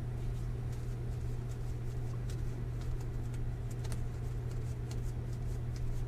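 Trading cards being handled and sorted by hand: faint, scattered light ticks and rubs of card stock over a steady low hum.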